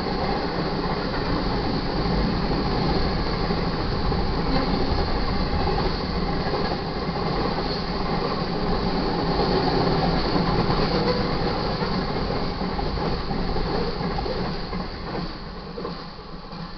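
Double-stack container freight train cars rolling past on the rails in a steady clatter that fades near the end as the train moves away.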